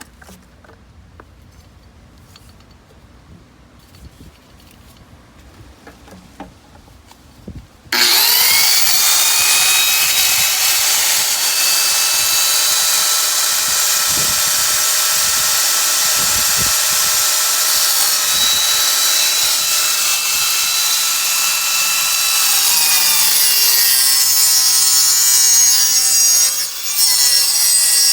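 Faint handling clicks, then about eight seconds in a power saw starts suddenly, its whine rising as the motor spins up, and runs steadily cutting through pool pipe. Late on the pitch wavers and drops, with a brief dip near the end.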